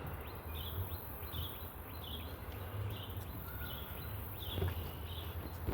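A bird repeating a short high chirp at an even pace, a little faster than once a second, over a steady low rumble, with a few faint footfalls or knocks near the end.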